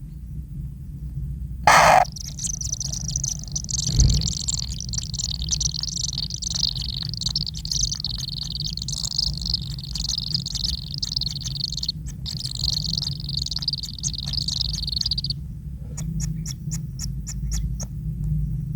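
Kingfisher nestlings begging: a continuous high chattering chorus that runs for about thirteen seconds, set off by a loud sharp burst about two seconds in. Near the end come a quick run of high ticks.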